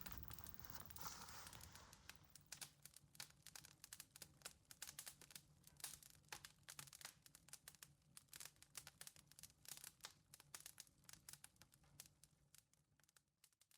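Faint, irregular crackling and popping of a wood campfire, thinning out and stopping near the end.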